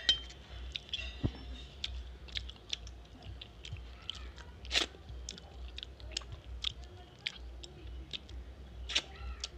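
Close-miked chewing and wet mouth clicks of someone eating rice and curry by hand, with fingers scraping the last food around a steel thali. The clicks come irregularly, several a second, a few sharper than the rest.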